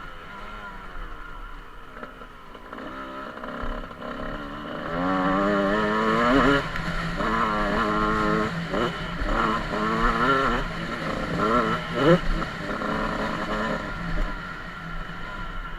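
Motocross bike engine running hard, its revs climbing and dropping repeatedly through gear changes, with the loudest, sharpest rev about twelve seconds in.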